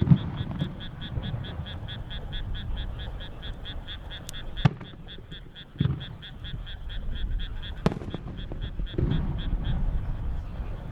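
Firework shells bursting overhead: low booms near the start, about 6 s and 9 s in, and sharp cracks at about 4.5 s and 8 s. Under them a frog calls in a fast, steady string of croaks, about six a second, fading near the end.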